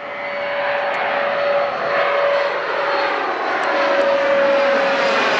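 US Airways airliner on landing approach flying close overhead. Its engine noise grows louder, with a steady whine that slowly drops in pitch as it passes.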